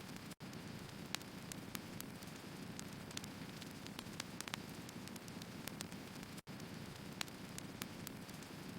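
Wood fire burning: a steady low rush with frequent, irregular sharp crackles and pops from the logs, broken by two brief dropouts to silence.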